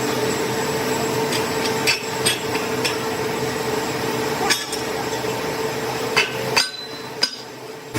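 Sharp metal knocks and taps, about seven at uneven intervals, over a steady machine hum. The hum drops away for the last second.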